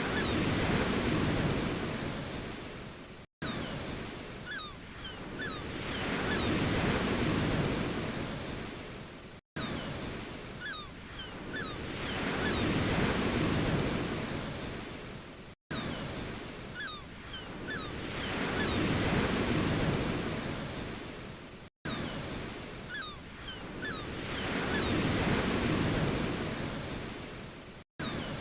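Ocean waves washing in and drawing back, one surge about every six seconds. The same short recording repeats, with a brief drop to silence between repeats and a few faint high chirps in each cycle.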